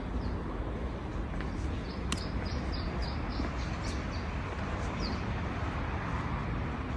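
A bird chirping: a quick series of about eight short high notes, roughly four a second, then a single falling note a second later, over steady outdoor background noise with a low rumble.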